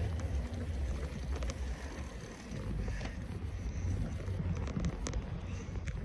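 Wind rumbling on the microphone while riding a bicycle, with scattered small clicks and rattles from the bike in the second half.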